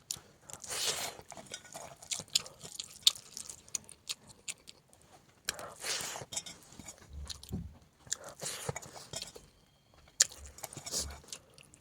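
Close-miked chewing and biting into chicken: crunchy spells of chewing a few seconds apart, with small sharp mouth clicks between them.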